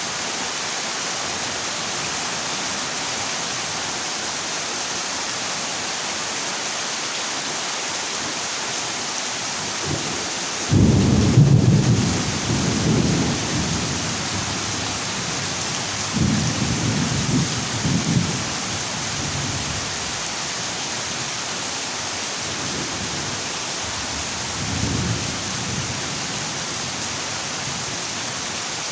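Heavy rain drumming steadily on a corrugated zinc roof, with rolls of thunder rumbling low: the loudest starts suddenly about 11 seconds in and lasts a few seconds, another follows around 16 seconds, and a fainter one comes near 25 seconds.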